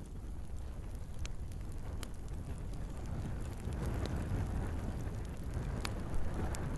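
Wood fire burning in a fireplace: a steady low rumble of the flames with scattered sharp crackles and pops from the logs, the loudest pop near the end.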